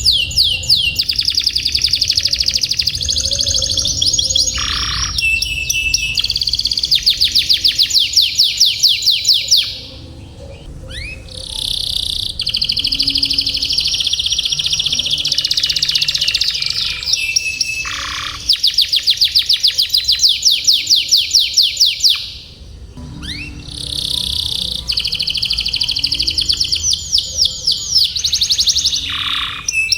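Domestic canary singing long rolling song: fast trills of rapidly repeated notes, phrase after phrase, with short lulls about ten seconds in and again around twenty-two seconds. A steady low hum runs underneath.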